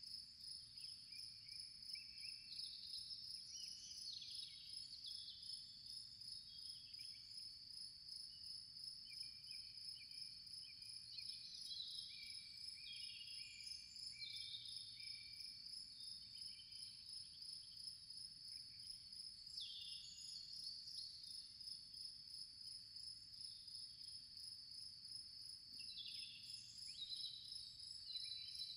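Faint nature ambience: insects trilling with a steady high, pulsing buzz, and now and then short chirping phrases that step down in pitch.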